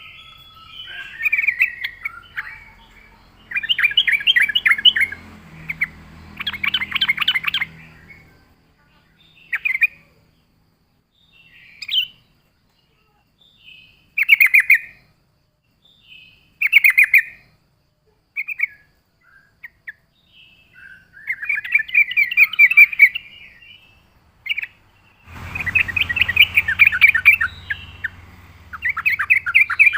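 Yellow-vented bulbul (trucuk) singing: bursts of rapid, bubbly chattering phrases, each a second or two long, with short pauses between them. A faint low hum sits under the song near the end.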